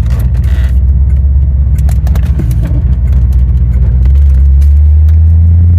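1990 Chevrolet Corvette (C4) V8 running under way with a low, steady drone. About four seconds in, the note rises in pitch and gets louder as the car accelerates.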